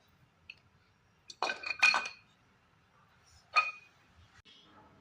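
Small metal tools and parts clinking against each other during work on an AC indoor fan motor. There is a faint tick near the start, a quick cluster of ringing clinks about a second and a half in, and a single ringing clink a little past the middle.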